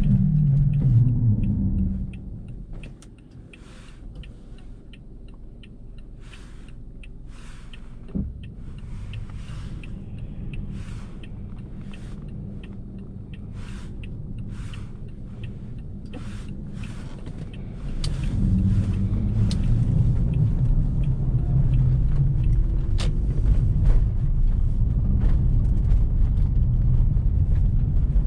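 Car driving in a snowstorm, a low rumble of tyres and engine. It drops away about two seconds in, leaving a quieter stretch with faint scattered ticks and one knock. The loud rumble comes back about eighteen seconds in.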